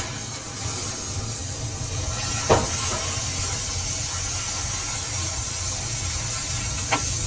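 Workshop machinery running with a steady low hum and hiss, with two short sharp clicks, one about two and a half seconds in and one near the end.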